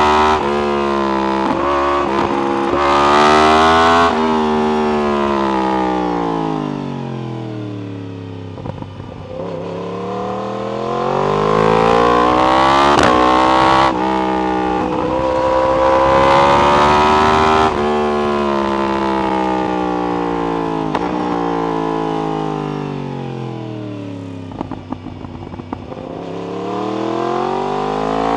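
Yamaha R1 inline-four with an Akrapovic exhaust, accelerating hard through the gears with short breaks at each upshift, then rolling off with the revs falling away smoothly, over and over. A few sharp crackles come through as the revs drop.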